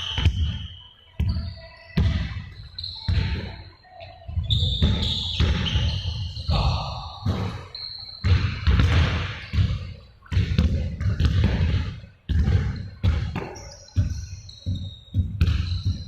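Repeated heavy thuds, irregular and roughly one a second, with short high squeaks between them, echoing in a large room.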